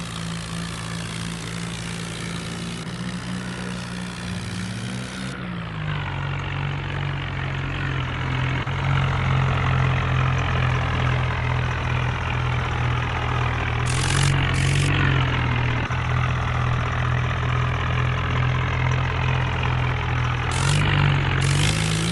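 Tractor engine running steadily. Its note drops about five seconds in, then holds lower and a little louder, rising slightly twice later on.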